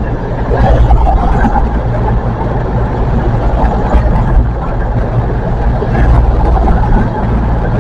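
Diesel train engine running steadily at the station with a low hum.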